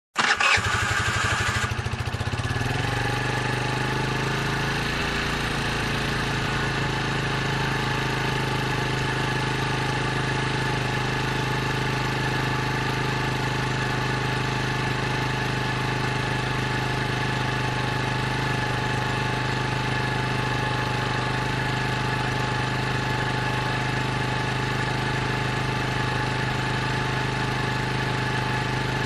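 Motor scooter engine started with a brief burst of cranking, catching at once and then idling steadily. The idle eases down in pitch over the first few seconds as it settles.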